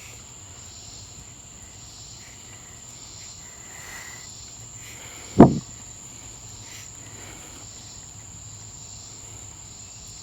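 Swamp cicada calling in a steady buzz over a constant high-pitched insect chorus, with a single short loud thump about five and a half seconds in.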